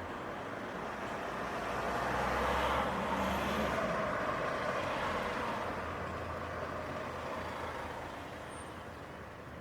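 A road vehicle passes on a city street: engine and tyre noise swell to a peak about three seconds in, then slowly fade away.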